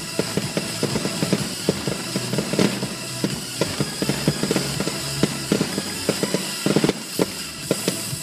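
Fireworks bursting in rapid, irregular crackling pops, heard from inside a car, over music playing on the car stereo.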